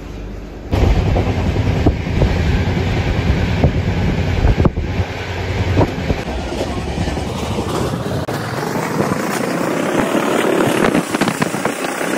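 Passenger train running at speed, heard from inside a carriage with a barred open window: a loud, dense rumble of wheels on rail and rushing air, with scattered clacks. It jumps up sharply about a second in.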